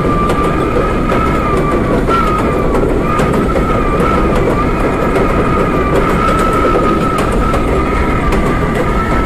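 R32 subway train running at speed: a loud steady rumble of wheels on rail, with a high whine that wavers slightly in pitch throughout and a few faint clicks.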